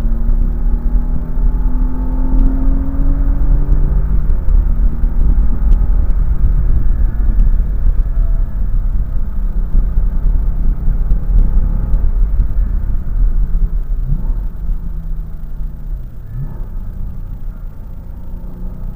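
Car engine being driven hard on a race track, heard from inside the cabin under a heavy low rumble. Its pitch climbs under acceleration in the first few seconds, and it briefly jumps in pitch twice near the end.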